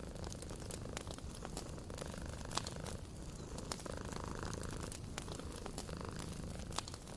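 A cat purring steadily, with a wood fire crackling over it in scattered sharp pops, the loudest about two and a half seconds in.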